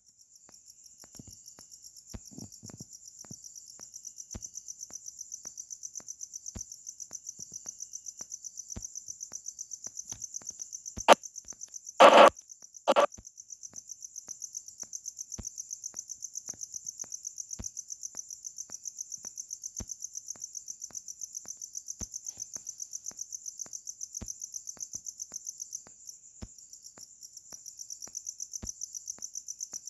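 Cricket chirping steadily in rapid, even high-pitched pulses. Three short, loud bursts of noise break in about 11 to 13 seconds in.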